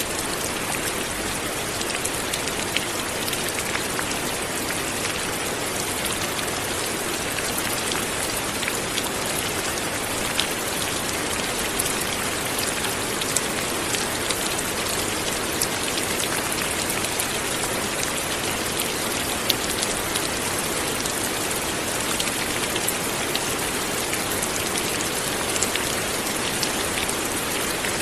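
Light rain falling steadily, a continuous soft hiss with many small drops ticking on surfaces.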